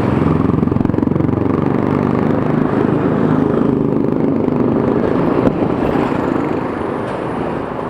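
Motorcycle engine running at speed, its note falling and then rising as the revs change, over a steady rushing noise.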